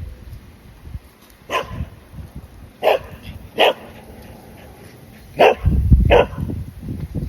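A dog barking: five short, sharp barks spaced irregularly, the last two close together over a low rumble.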